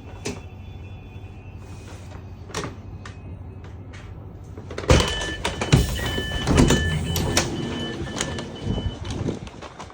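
Low vehicle rumble with scattered clicks. About five seconds in, louder clattering and knocks begin, together with a repeated high electronic beeping.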